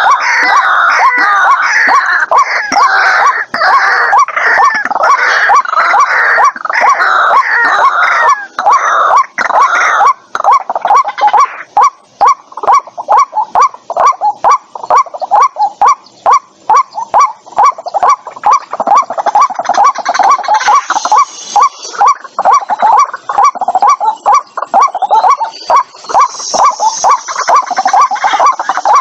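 White-breasted waterhen calling: loud, harsh notes repeated rapidly and evenly, with several calls overlapping in the first part and a steady fast run of separate notes after about twelve seconds.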